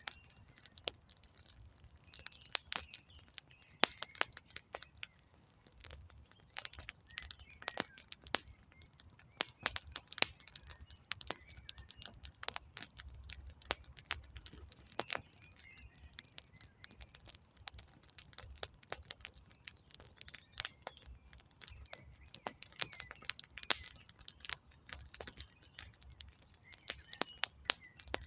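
Wood campfire crackling, with sharp pops and snaps coming irregularly over a soft low rumble of the flames. Faint birds chirp now and then in the background.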